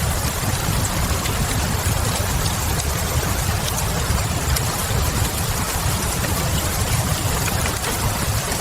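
Steady rain with a deep low rumble under it, and faint, scattered crackles of a wood fire in a fireplace.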